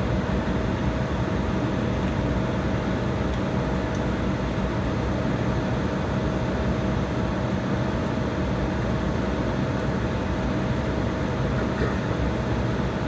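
Jet airliner cabin noise while taxiing: the engines at low power giving a steady rumble and hiss, with a constant hum and one steady tone over it.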